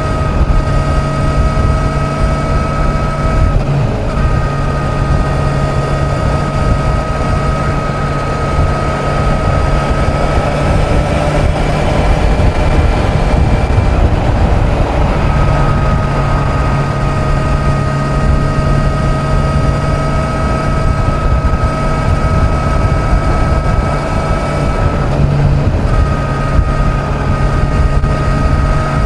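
Kawasaki Z900's inline-four engine running at steady highway cruise, with heavy wind rumble on the microphone. The engine note holds steady, breaking off briefly about four seconds in and again near the end, and fading under the wind for a few seconds midway.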